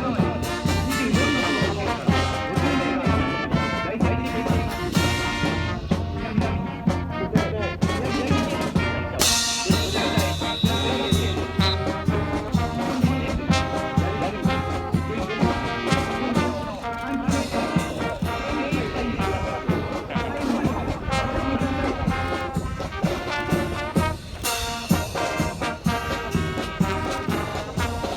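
Brass band music with trombones and trumpets, played with a steady march-like beat.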